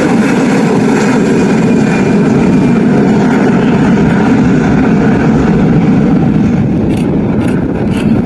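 Aircraft engines running loud and steady as a plane passes close by, a dense rumble with a faint whine on top.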